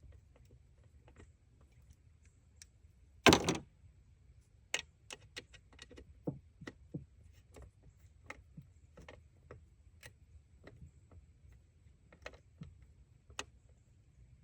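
Scattered small clicks and taps of hand work, with one louder clatter a little over three seconds in.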